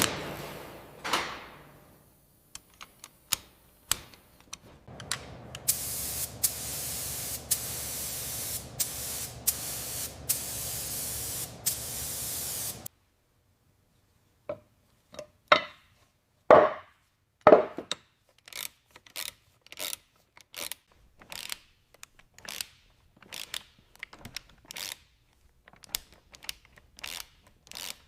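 A steady spraying hiss that cuts off suddenly, then, after a moment's silence, a long run of separate light clicks and knocks, a few louder and briefly ringing, from parts being handled at a workbench.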